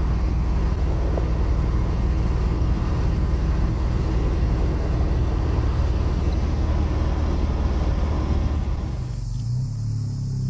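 Busso 3.0 V6 engine of a Lancia Stratos replica heard from inside the cabin while cruising, a steady low drone mixed with road and wind noise. About nine seconds in, the road noise drops away and only the engine is left, running at a lower, steady tone.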